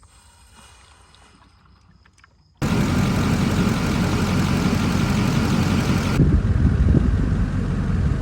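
Vehicle engine running, a loud, dense rumble that cuts in suddenly a few seconds in after a faint quiet stretch.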